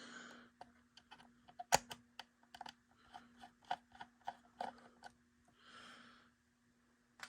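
Faint, irregular small clicks and taps of hard plastic as an HO-scale model railcar's truck and body are handled and pried at, with two soft hisses, one near the start and one about six seconds in, over a faint steady hum.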